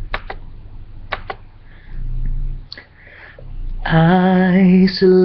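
A few sharp clicks over a low hum, then about four seconds in a man's voice starts singing, holding a sustained note that breaks briefly before going on.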